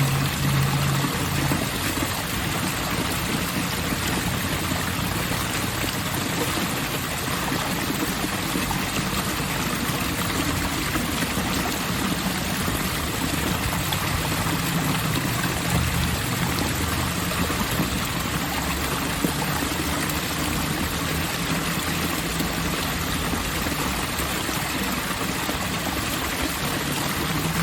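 Water running steadily in an outdoor park water fixture, an even rush of flowing and splashing water. A faint low hum comes and goes underneath.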